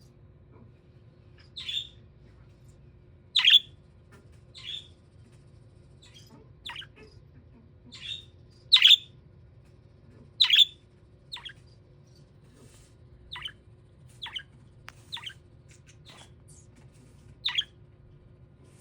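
Budgerigar chirping: about a dozen short, sharp calls at uneven intervals, over a faint steady hum.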